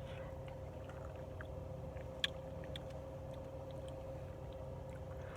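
Steady low background hum with a constant tone in it, and a few faint clicks, the clearest a single light clink a little after two seconds in, during a meal of French toast and eggs.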